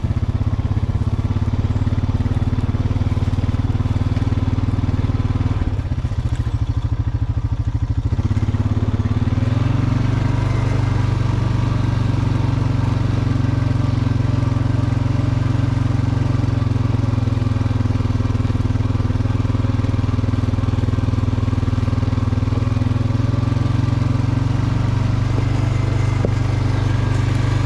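John Deere 5045E tractor's three-cylinder diesel engine running steadily under load while driving an MX8 rotary cutter through the field. The engine note changes briefly about six seconds in, then settles back to a steady run.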